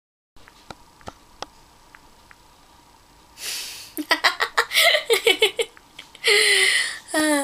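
A person's wordless vocal reactions: a few faint clicks, then a loud breathy inhale, a quick run of choppy gasping breaths, and two drawn-out moans that fall in pitch near the end.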